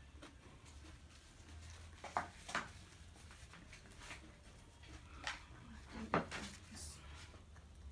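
Eating sounds close to the microphone during a burger-and-fries meal: a handful of short, sharp clicks and crackles from chewing and handling food, the loudest about six seconds in, over a faint low hum.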